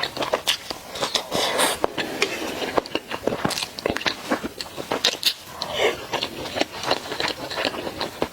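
Close-miked eating of spicy mala food: irregular crunchy bites and chewing, with many sharp clicks and a few wetter smacking sounds.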